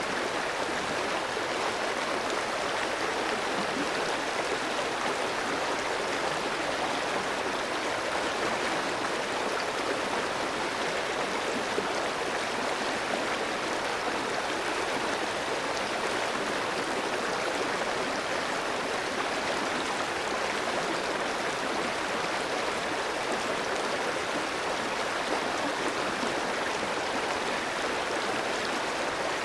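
A clear, shallow stream running over rocks: a steady rush of flowing water with no pauses.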